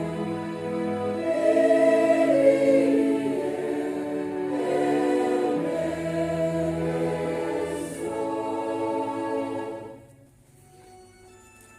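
Church choir singing, with several voice parts moving together over low sustained accompaniment. The singing ends about ten seconds in, and soft sustained organ notes carry on.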